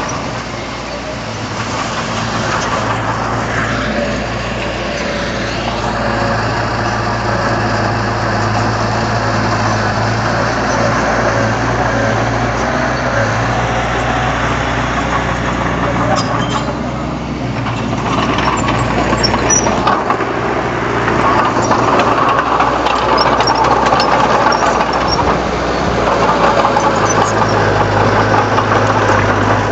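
Komatsu D31 bulldozer's diesel engine running under changing load, its level rising and falling, and a little louder in the second half.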